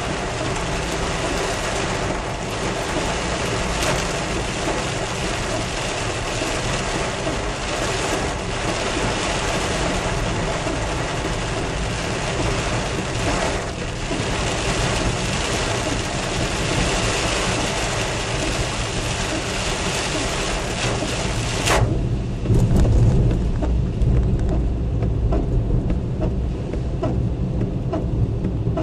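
Heavy storm rain, with hail, pelting down as a dense steady hiss flecked with sharp ticks. About 22 seconds in the hiss drops away abruptly and a deeper, louder low rumble takes over.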